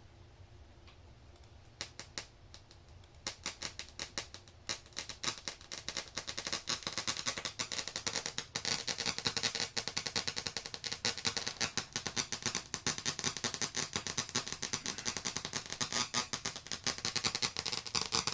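Rapid clicking and crackling glitch noise from an RME Fireface UFX audio interface, over a faint low hum. Scattered clicks start about two seconds in and build into a dense, louder crackle: the unwanted weird sounds the interface is producing.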